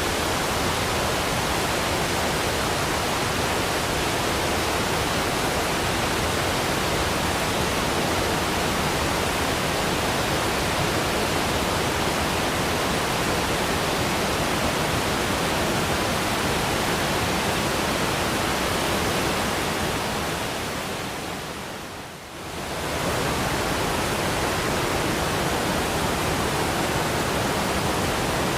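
Waterfall rushing in a steady, even roar of water noise. About three-quarters of the way through it fades down briefly and swells back to the same level.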